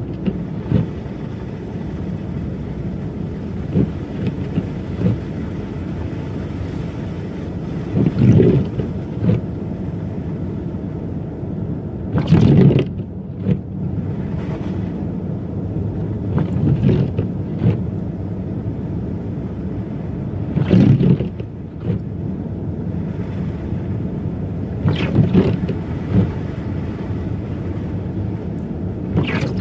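Car driving on snowy streets: a steady low rumble of tyres and engine, with a short, louder swish about every four seconds.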